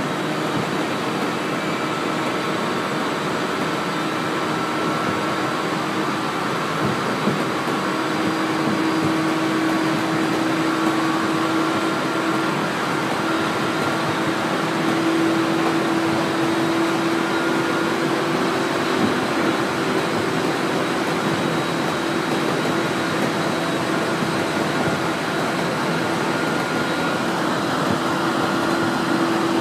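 Cabin noise of a 701-series electric multiple unit running at speed: a steady rush of wheels on rail, with a humming tone that comes in about a quarter of the way through and steps up a little in pitch around the middle.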